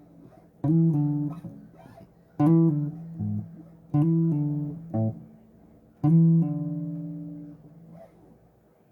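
Bass guitar played solo in single plucked notes with pauses between them: about six notes, a couple of them short and quick. Each note rings and fades, and the last, about six seconds in, is held longest.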